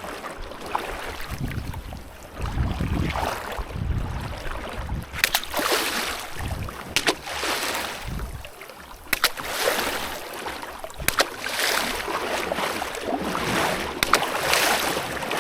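Water splashing and sloshing in repeated swells every second or two, with a few sharp knocks in the middle.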